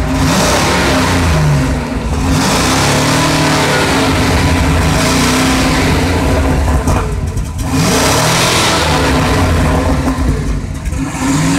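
2001 Mercury Mountaineer's 5.0 V8 revved hard and held up, easing off briefly about three times before climbing again. This is the engine being run up to burn off the Seafoam cleaner that soaked in through the brake booster vacuum line.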